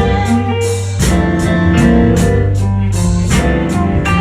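Live blues band playing an instrumental passage between sung lines, with guitar to the fore over a steady beat.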